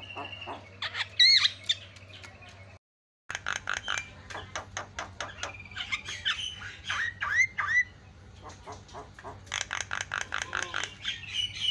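Javan myna calling noisily: rapid clicking chatter mixed with harsh squawks and short whistled notes that swoop up and down. The sound cuts to silence for a moment about three seconds in.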